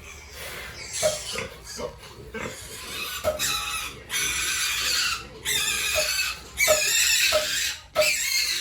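Pigs squealing: a series of harsh cries, each a second or so long, louder in the second half.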